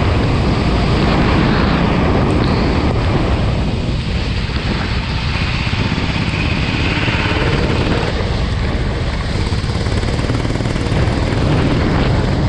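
Go-kart engine running at speed on a wet track, mixed with wind noise on the microphone.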